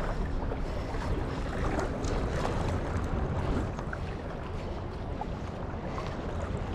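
Steady rush of river water with wind buffeting the microphone, heaviest in the low end, with a few faint ticks scattered through.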